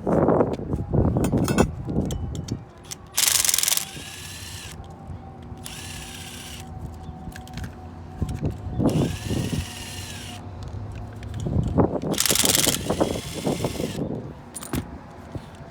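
Power drill run in about four short bursts, each spinning up and winding down in pitch, with knocks from handling parts in the first couple of seconds.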